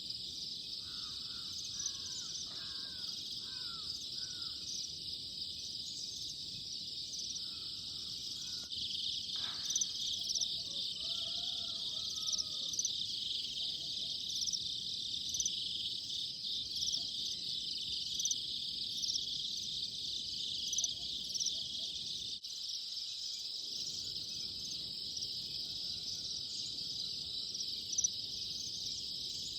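A steady, dense chorus of insects, crickets or cicadas, with a fine pulsing trill, joined by scattered short bird calls, mostly in the first few seconds.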